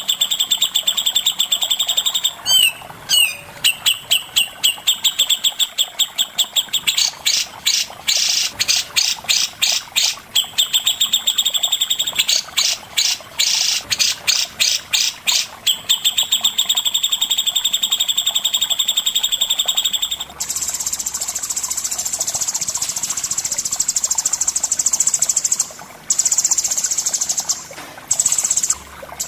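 Songbird recording of cucak jenggot and cendet song: a fast, high, steady trill broken by runs of quick separate notes, giving way about twenty seconds in to a harsh, hissing buzz.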